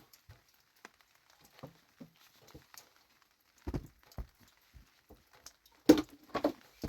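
A few scattered knocks and thumps, the loudest two close together near the end.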